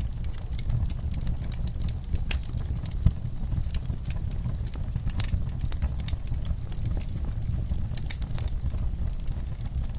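Wood fire burning in a fireplace: a steady low rumble of flames under many irregular crackles and small pops, with one louder pop about three seconds in.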